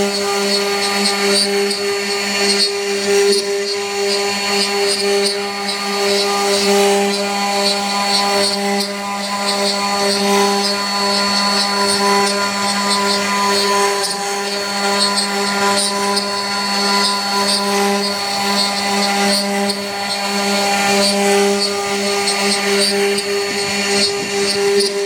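CNC router spindle whining at a steady pitch as its bit carves wood, with a scratchy crackle of cutting over the whine.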